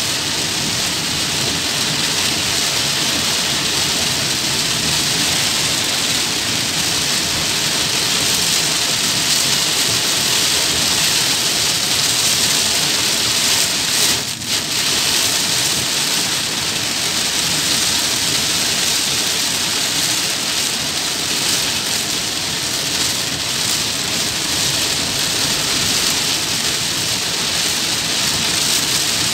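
Heavy rain falling on a car's roof and windscreen, heard from inside the moving car as a steady loud hiss, with a brief dip about halfway through.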